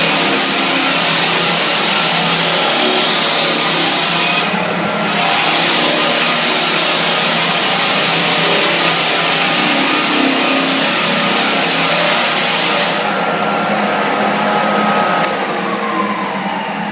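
8-inch Hummel drum floor sander running with a 50-grit BONA Platinum belt, grinding through wax and adhesive on hardwood with a loud steady hiss over the motor's hum. The sanding hiss drops out briefly about four seconds in and stops about thirteen seconds in, and near the end the motor is switched off and winds down with a falling whine.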